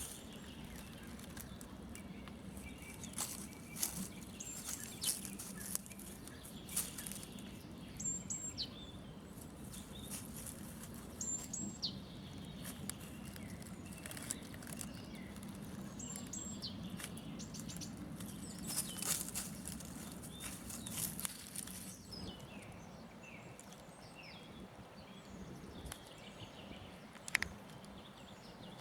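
Several woodland birds singing and calling, short high chirps and whistled notes every second or two, with scattered sharp clicks and a low steady hum underneath.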